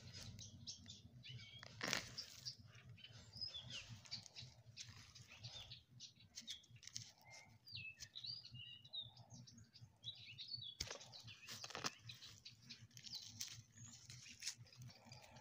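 Small birds chirping with short, quick calls scattered throughout, faint against a low steady background, with a few sharp clicks and rustles close by.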